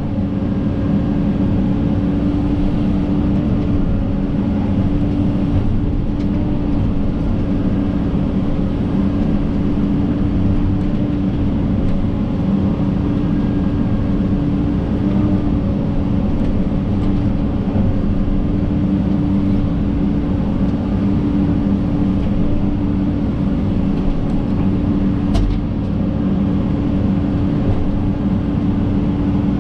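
John Deere 130G excavator's diesel engine running steadily as the machine works, with one sharp click near the end.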